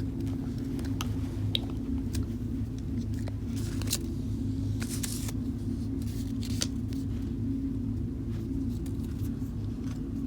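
A steady low hum runs throughout, with scattered light clicks and taps and a couple of short rustling swishes about four and five seconds in.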